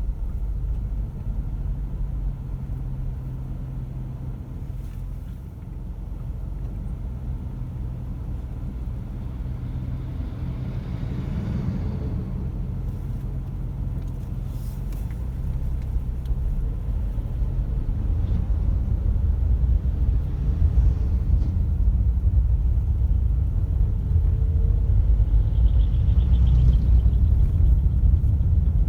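Car driving on a road: a steady low rumble of engine and tyres, which grows louder about two-thirds of the way through.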